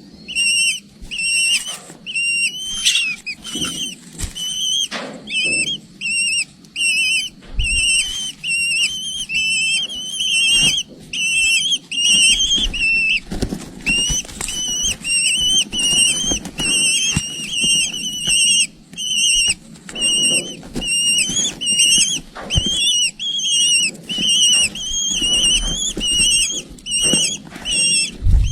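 Eagle chicks giving high, thin, whistled begging calls over and over, a couple of wavering calls a second without a break.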